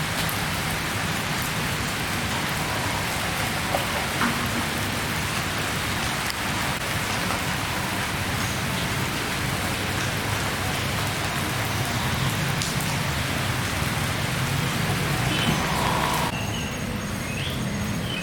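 Heavy rain falling steadily. It cuts off abruptly near the end, and faint chirps and a pulsing high tone follow.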